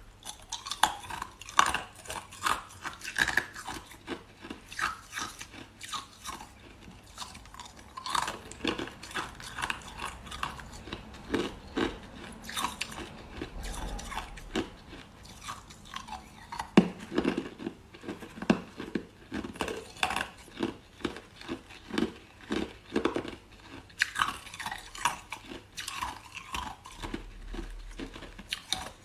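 Close-miked crisp cracking and crunching of brittle pieces being smashed and crushed by hand, in quick irregular clusters of sharp snaps with short pauses between.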